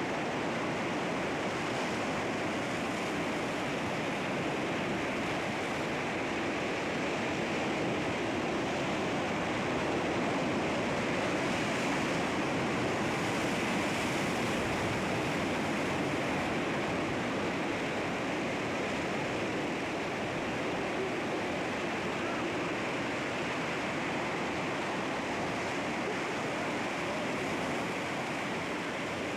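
Sea waves washing against rocks: a steady rush of surf that swells gently about halfway through and eases off again.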